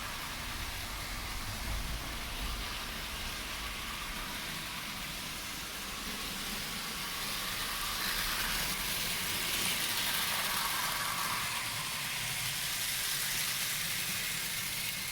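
Trix model Warship locomotive running with a heavy freight train on Hornby Dublo track: a steady whirring and rattle of the motor and wheels on the rails, growing louder about eight seconds in.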